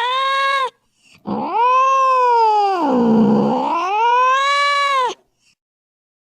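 Angry domestic cat yowling: a wavering call breaks off early, then a second long yowl of about four seconds sinks low in the middle and rises again before cutting off suddenly.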